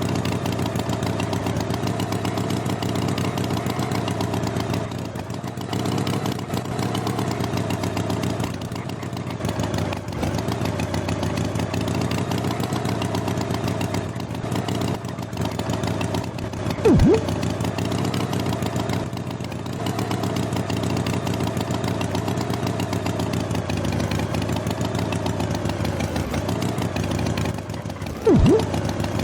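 A motor engine running steadily with a slightly wavering pitch, broken twice by a quick springy 'boing' sound effect.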